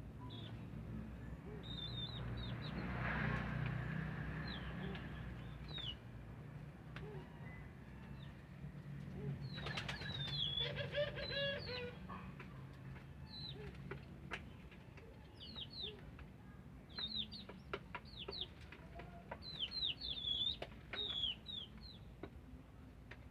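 Wing flaps of a ringneck dove, with many short, high chirps from small birds coming in clusters. A low steady hum runs underneath.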